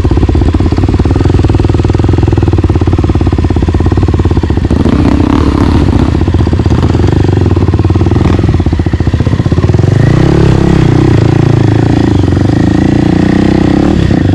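Single-cylinder four-stroke trail bike engine running under throttle, loud and continuous, with the revs rising and falling over the second half.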